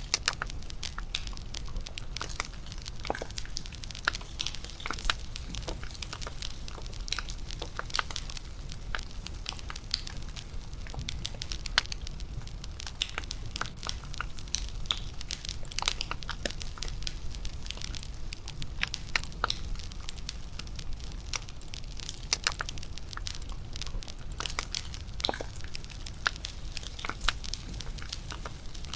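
Bonfire crackling: irregular pops and snaps of burning wood, some sharper than others, over a low steady rumble.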